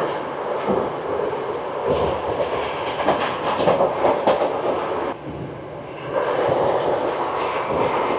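Passenger train running on the rails: a steady rumble of wheels on track, with a run of clacks near the middle. The sound dips briefly about five seconds in, then resumes.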